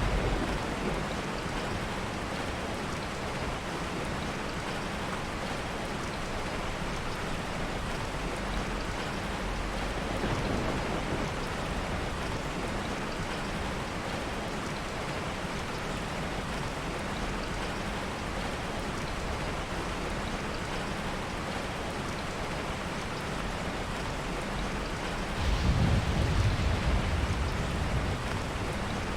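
Steady heavy rain, with a low roll of thunder near the end and a fainter rumble about a third of the way in.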